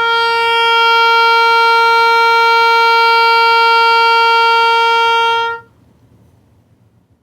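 Oboe playing a single long, steady note held for about five and a half seconds, then stopping cleanly. It is a sustained tone kept going with constant, fast air pressure pressed out from the belly.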